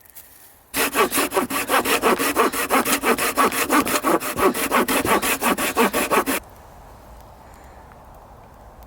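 A hand saw cutting wood in rapid, even back-and-forth strokes for about five and a half seconds, then stopping abruptly.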